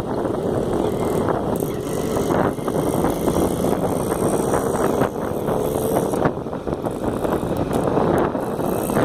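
Motorcycle engine running under way on a ride, with steady wind and road noise over the microphone and a faint engine tone.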